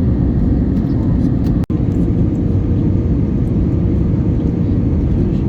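Steady roar inside the cabin of an Airbus A321neo airliner in flight: engine and airflow noise with a faint steady hum, cutting out for an instant about one and a half seconds in.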